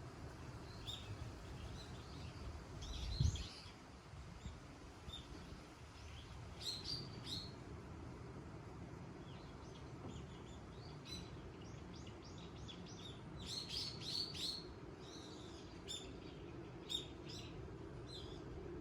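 Small birds chirping in short, high calls scattered throughout, thickest about a third of the way in and again past the middle, over a steady low rush of wind. A brief low thump comes about three seconds in.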